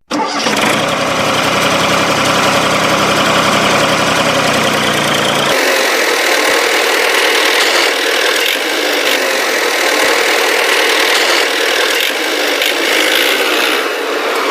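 An engine running steadily with a dense mechanical rattle. About five and a half seconds in, its deep low rumble cuts out abruptly while the higher clatter continues.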